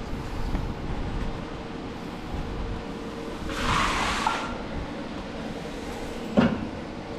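A broom sweeping rusty debris on a garage floor: one scraping swish about halfway through, then a single knock near the end, over a steady low rumble.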